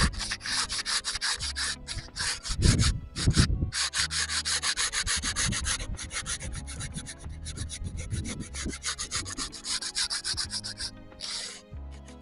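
Hand sanding in quick back-and-forth strokes, about five or six a second, pausing briefly a couple of times and stopping near the end.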